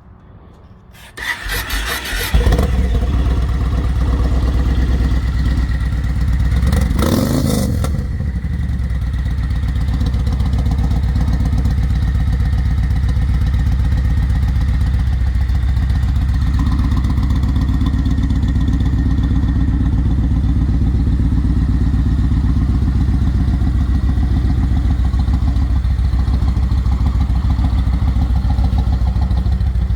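Yamaha Road Star Warrior's 1,700 cc V-twin with Vance & Hines exhaust being started, catching about two seconds in, then idling steadily and loudly. A short noisy burst comes about seven seconds in.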